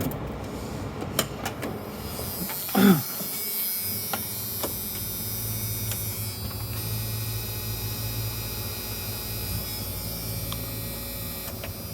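Diesel fuel pump at a filling station running steadily, a low hum with a hiss of fuel flowing through the nozzle into the 1993 Ford F350's tank. A few clicks come in the first two seconds.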